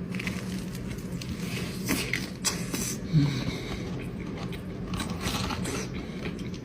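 Eating a crispy Korean corn dog: a few crunchy bites and chewing crackles at irregular intervals over a low steady hum.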